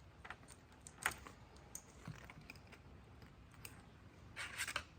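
Scattered light metallic clicks of a new bicycle chain being handled and straightened out of its coil, with a sharper click about a second in and a short cluster of clicks near the end.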